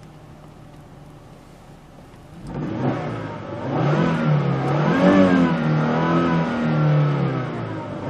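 2006 Volvo XC90's turbocharged engine idling quietly, then revved from about two and a half seconds in, its pitch rising and falling with several blips of the throttle.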